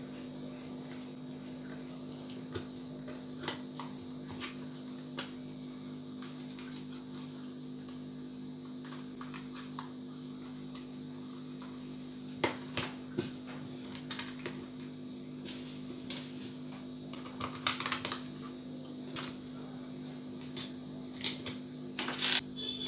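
Scattered light clicks and taps of small plastic parts being handled, growing more frequent in the second half, over a steady low electrical hum.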